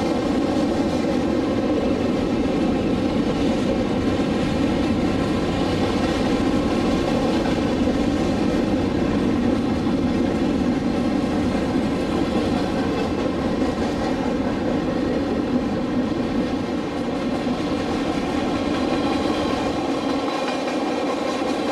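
Boxcars of a freight train rolling past at a steady speed, their steel wheels running on the rails in a continuous, even noise.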